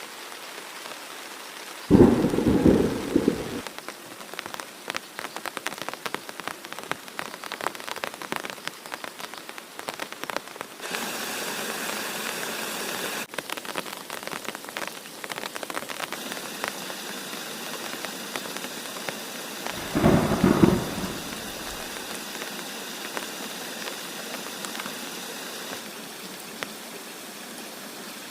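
Steady heavy rain with two loud thunder claps, one about two seconds in and another about twenty seconds in, each lasting a second or two.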